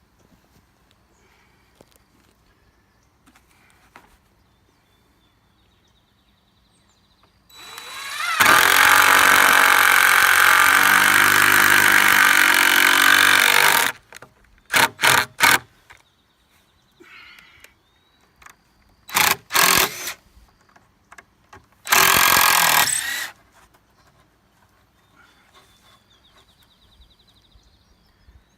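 Power drill driving screws into the wooden coop framing. It makes one long run of about six seconds that speeds up at the start, then a few short bursts to seat screws.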